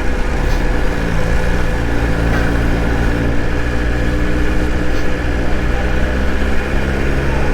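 BMW S1000RR's inline-four engine running at a steady pitch while riding, with a dense low rush of wind noise over it.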